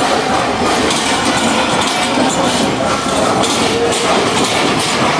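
Passenger train coaches rolling slowly alongside a station platform, with wheel clicks over the rails, under the chatter of a crowd of people.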